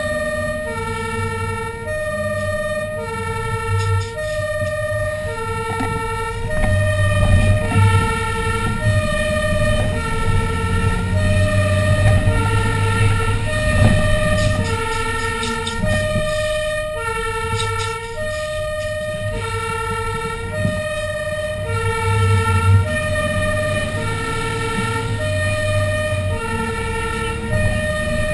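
Fire engine's two-tone siren alternating steadily between a low and a high note, one low-high cycle a little over every second, with the truck's engine running underneath.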